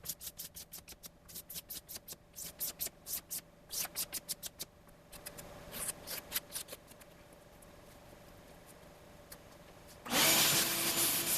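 Razor blade scraping fuzzy machining ridges off a CNC-cut UHMW plastic surface, in quick short strokes several times a second, for about the first five seconds. About ten seconds in, a loud, steady machine noise with a hum starts abruptly.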